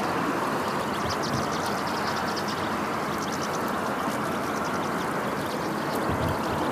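A flock of European goldfinches twittering: quick, high chirps in short runs over a steady rushing background noise.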